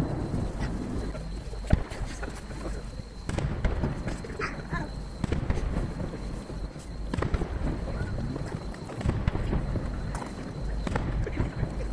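Distant aerial firework shells bursting, heard as scattered sharp reports over a low rumble, the sharpest about 1.7 s in. The recording is sped up three times, so the reports come close together, with spectator chatter faintly underneath.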